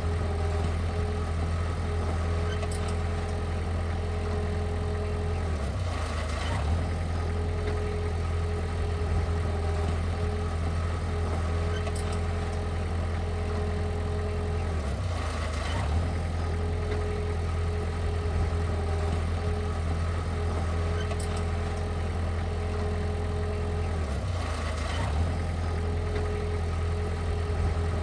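Heavy machinery's diesel engine running steadily at a constant low speed, with a brief dip in the hum about every nine to ten seconds.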